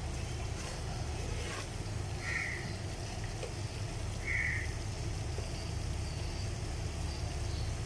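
Semolina frying in hot ghee in an aluminium pot while being stirred with a spatula, over a steady low rumble. Three short high chirps come about two seconds apart.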